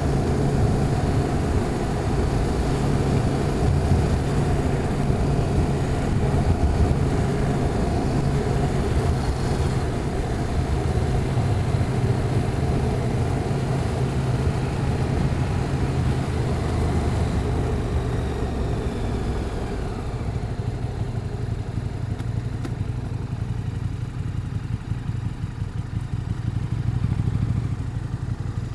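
Motorcycle engine running steadily on the move, with a rushing road and wind noise over it that eases off about two-thirds of the way through.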